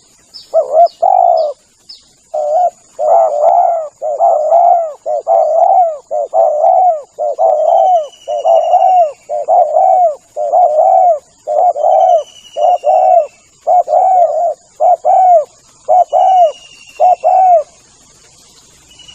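Spotted dove cooing over and over, a long run of low, rolling coos with short gaps, stopping a little before the end. Thin high chirps and a few short trills from another bird sound faintly above it.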